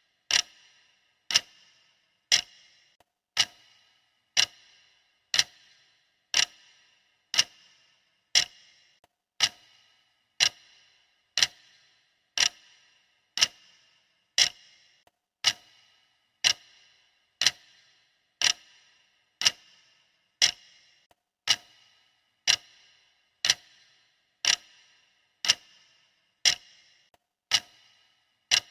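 Steady clock ticking, one sharp tick each second with a brief ringing tail, keeping even time as a countdown timer's tick.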